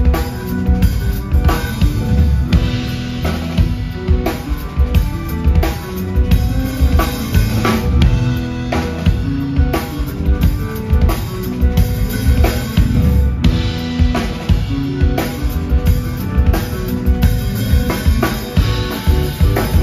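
Live rock band playing an instrumental passage, with a drum kit driving a steady beat of bass drum and snare under bass, guitar and keyboards.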